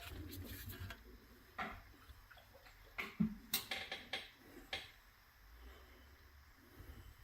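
Light, irregular clicks and taps of small metal toy-truck parts being handled and fitted, with a few sharper knocks about three to five seconds in.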